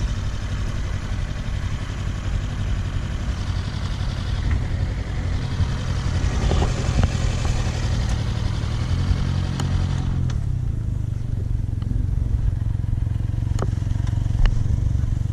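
Kawasaki Versys-X 300's parallel-twin engine running at low speed and idling as the bike is eased along. A hiss over it drops away about ten seconds in, leaving the engine's steady hum and a few sharp clicks near the end.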